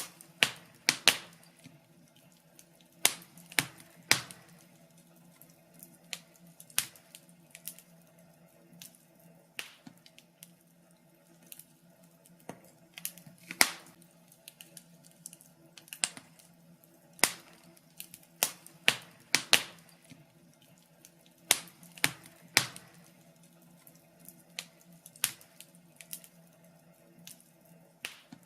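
Wood fire crackling, with irregular sharp pops and snaps, a few of them much louder than the rest, over a faint steady low hum.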